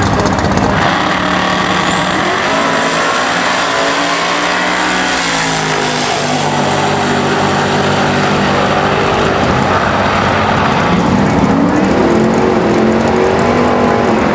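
Drag-racing car engine under hard acceleration, running loud throughout. The pitch climbs for a few seconds, drops back, then climbs again near the end. A thin high whistle rises with the first climb.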